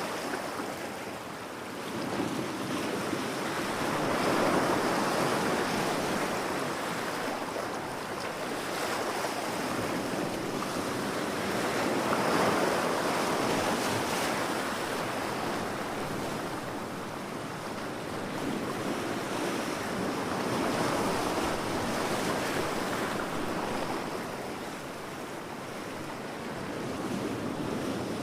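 Ocean waves breaking on a beach, the surf swelling and washing back in slow surges about every eight seconds.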